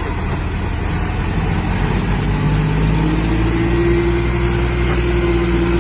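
Heavy diesel engine of an earth-moving machine running, revving up about two and a half seconds in and then holding a higher, steady pitch under load.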